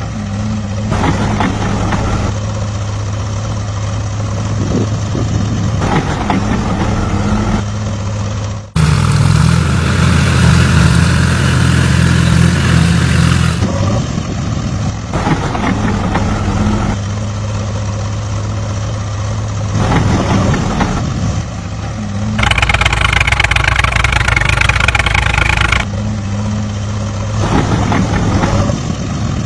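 Small motors of miniature model machines running with a steady hum. The sound changes at several cuts, with a louder, rougher stretch about a third of the way in and an added higher whir about three quarters of the way through.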